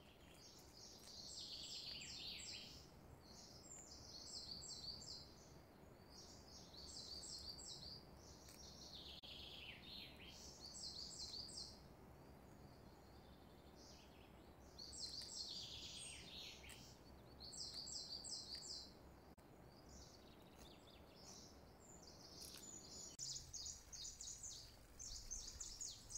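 Faint birdsong: small birds chirping in quick, high runs again and again, with a few calls that fall in pitch, over a low steady hiss.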